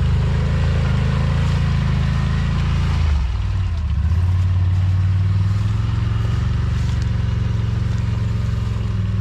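ATV engine running at close range. Its note drops about three seconds in, then holds a steady low run.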